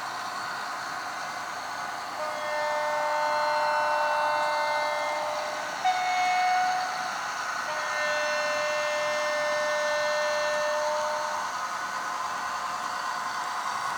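Model train's sound-fitted horn sounding through its small onboard speaker: a long horn blast, a click and a short blast about six seconds in, then another long blast, over a steady hiss.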